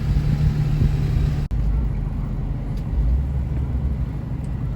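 Low, steady rumble of a vehicle engine, broken by a brief dropout about a second and a half in.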